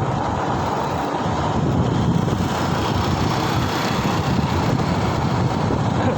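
Steady wind rush over the microphone of a rider on the move, with road and traffic noise underneath.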